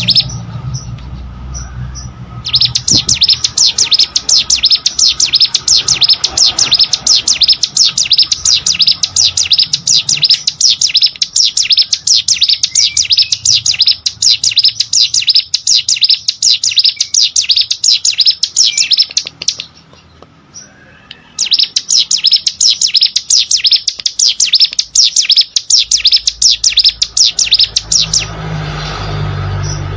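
Plain prinia (ciblek sawah) singing: long runs of rapid, repeated high-pitched notes, broken by short pauses about two seconds in, around twenty seconds, and near the end.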